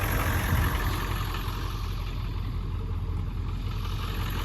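Ford 7.3 Power Stroke V8 turbo-diesel idling steadily at low idle shortly after a cold start, still not quite happy from the cold.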